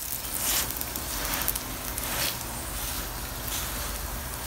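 Oil sizzling under a stuffed paratha on a hot tawa, a steady hiss that swells and eases about once a second as a spatula presses the paratha down.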